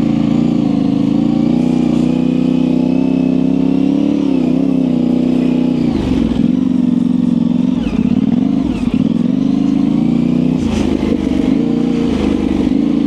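Yamaha Ténéré 700's parallel-twin engine, fitted with an aftermarket high exhaust, running at a steady throttle under load for about six seconds, then with the throttle rolled on and off repeatedly, the engine note dipping and rising several times.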